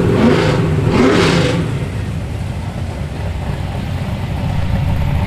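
Car engine revved up and down a couple of times in the first second and a half, then running at a steady low idle.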